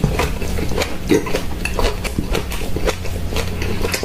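Close-miked wet chewing and slurping of cooked seafood: a quick, irregular run of smacking mouth sounds.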